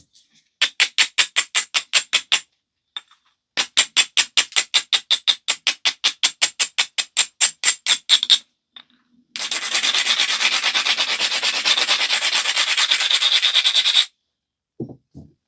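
An abrader rubbed back and forth along the edge of a stone biface, grinding the edge to strengthen the striking platforms before flaking. It comes as two runs of quick, even strokes, about six a second, then a longer stretch of faster, continuous scrubbing, with a few small clicks near the end.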